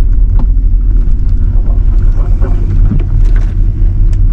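Pickup truck running and rolling slowly, heard from inside the cab as a steady deep rumble, with a few faint clicks over it.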